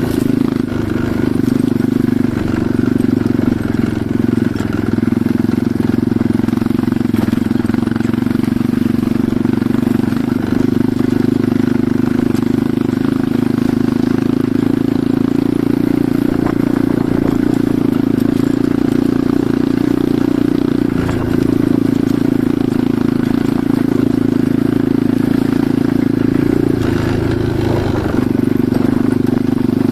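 Enduro motorcycle engine running at a steady, even pitch, with brief dips about two-thirds of the way through and again near the end.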